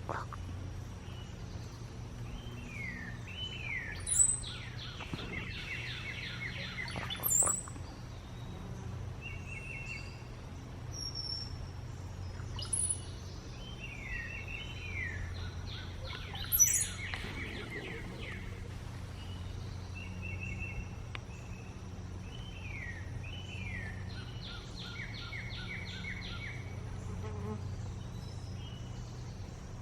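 Cowbird singing repeated gurgling, water-like phrases: downward-sliding liquid notes and quick note runs, each ending in a brief high squeak, in about three bouts. A steady thin high whine and a low hum run underneath.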